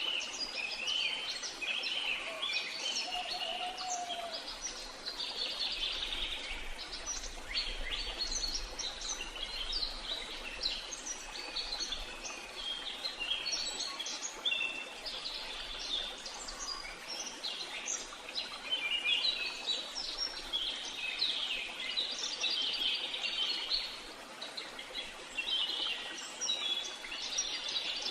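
Many songbirds chirping and trilling over one another, with a steady background hiss underneath.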